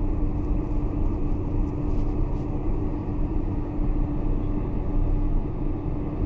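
Steady cabin noise of a Boeing 747-400 heard from inside the passenger cabin: an even engine hum holding one steady tone over a low rumble.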